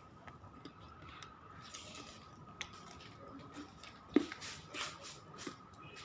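Faint scattered clicks and crackles, with one sharp click about four seconds in, over a faint steady high-pitched tone.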